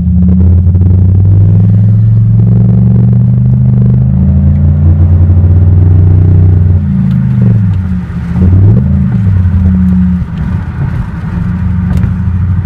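2007 Pontiac Grand Prix GXP's 5.3-litre V8 running through a muffler-deleted exhaust: a loud, deep drone that holds steady, then swings up and down in pitch about seven to nine seconds in as the engine is revved, before settling again.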